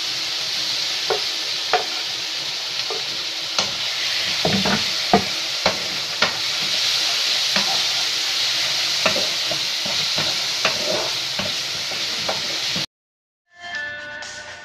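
Chicken pieces sizzling in a hot wok with garlic and onion, a wooden spatula stirring and clicking against the pan now and then. Near the end the sizzle cuts off suddenly, and after a brief silence music begins.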